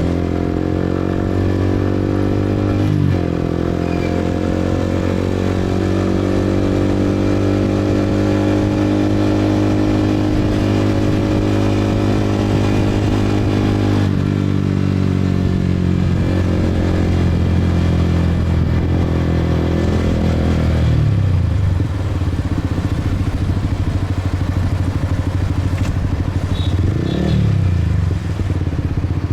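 Motorcycle engine running under way, a steady note whose pitch slowly climbs and drops sharply twice, about three seconds in and about halfway through. In the last third the engine note falls lower and wavers up and down as the bike slows.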